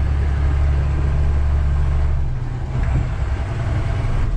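Vehicle engine working hard to climb a steep, muddy grade with the differential lock engaged. A deep, steady drone drops away about two seconds in to a rougher, lighter running note.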